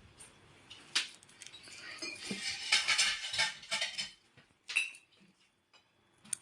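Light clinks and rustling of small objects being handled: a sharp click about a second in, a stretch of clattering rustle from about two to four seconds in, and another click near five seconds.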